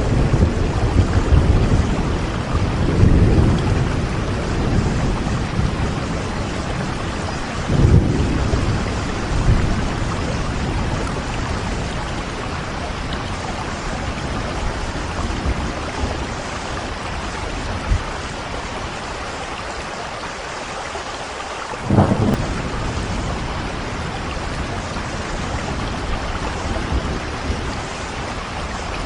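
Steady rain with thunder rumbling low through roughly the first ten seconds, then a short, loud thump about two-thirds of the way through.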